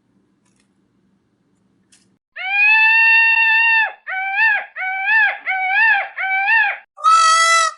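A domestic animal's calls: about two seconds in, one long high-pitched call, then four short calls that rise and fall in pitch, and a last, brighter call near the end.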